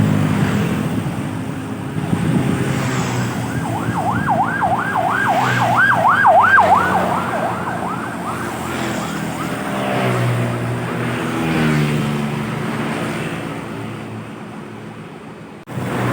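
Emergency vehicle siren in a fast yelp, rising and falling about two to three times a second, going by over the low engine rumble of heavy road traffic, then fading away.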